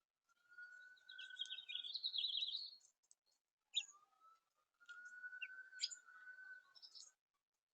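Small songbirds singing and chirping: a rapid warbling song in the first few seconds, then scattered chirps, over a steady faint whistle-like tone.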